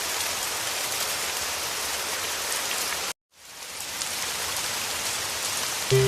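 Heavy rain falling steadily as a dense, even hiss. Just past halfway it cuts out to silence for an instant, then fades back in.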